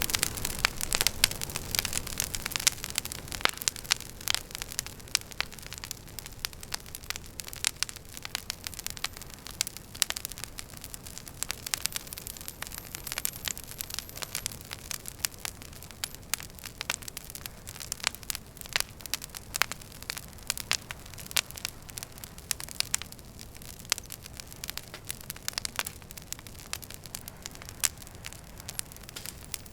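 Wood fire burning in a fireplace: irregular sharp crackles and pops, several a second, over a low steady rush of the flames.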